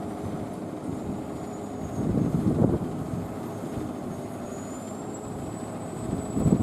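Heavy truck engine running, with engine and road noise swelling briefly about two seconds in.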